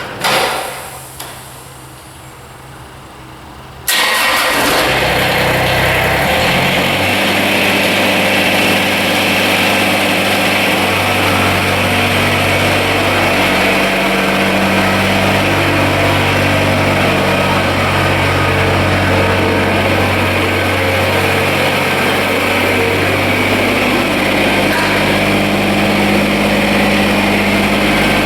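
Kubota BX24 compact tractor's three-cylinder diesel engine running steadily, coming in abruptly about four seconds in, its pitch shifting a little as the engine speed changes. A short loud noise comes right at the start.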